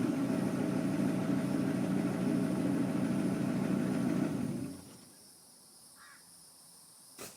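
1986 Ford F-250's non-turbo 6.9 IDI V8 diesel, straight-piped with no muffler, idling with a steady, even pulse. It is shut off about four and a half seconds in and runs down within half a second. A faint short chirp and a brief click follow.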